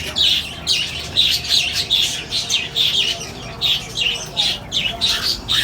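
Many small parrots in a breeding aviary chirping and chattering together, a dense run of short high chirps several times a second.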